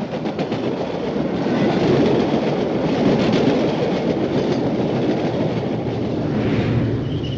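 Steam train running along the rails, growing louder over the first couple of seconds as it approaches and then holding steady.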